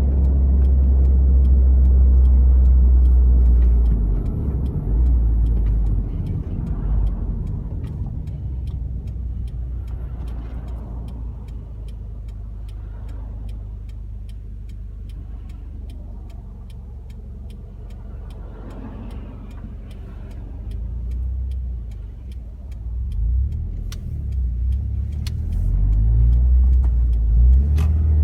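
Toyota 86's flat-four heard from inside the cabin through a Kakimoto Class KR quad-outlet aftermarket exhaust: a very deep exhaust drone under throttle, easing to a quieter cruise for much of the time and building again near the end as the car pulls. A light, even ticking about twice a second runs underneath.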